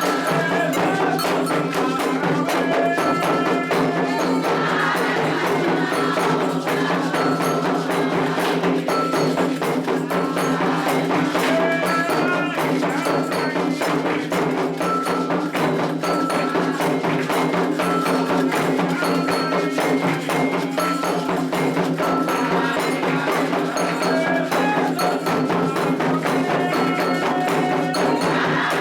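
Candomblé ritual music: atabaque hand drums beating a dense, continuous rhythm, a metal bell (agogô) striking short repeated tones over it, and voices singing.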